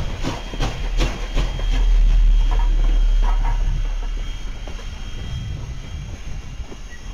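Freight cars of a slow train rolling past, their wheels clicking over rail joints about three times a second for the first two seconds, then a low rumble that swells and fades.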